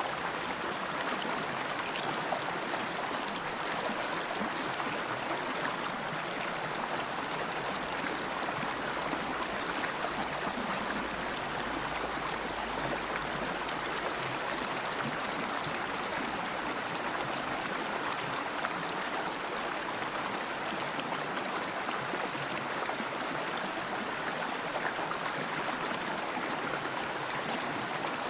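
River water flowing over rocks in a steady, even rush with small gurgles and splashes.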